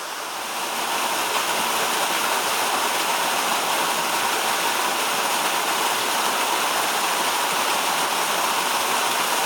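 Waterfall: a steady rush of falling water that swells about a second in and then holds.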